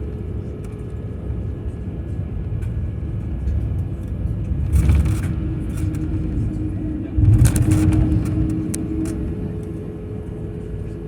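Airliner cabin noise: a steady low engine rumble with a faint constant hum, and two brief louder rushes about five and seven seconds in.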